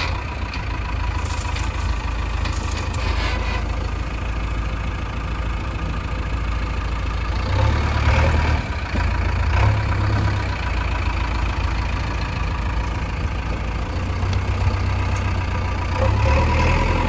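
Heavy diesel engine running steadily, rising in a few brief surges about eight and ten seconds in and again near the end.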